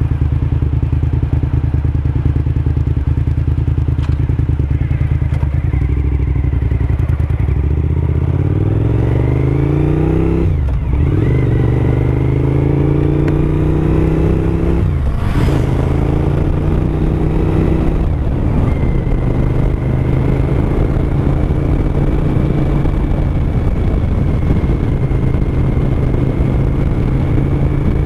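2007 Suzuki SV1000S's 90-degree V-twin engine under way: a steady note, then rising in pitch as it accelerates about a third of the way in, broken twice by quick gear changes, before settling into a steady cruise.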